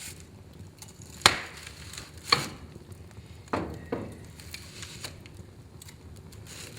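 Wood fire in a fireplace crackling over a low hiss, with four sharp pops in the middle, the last two close together.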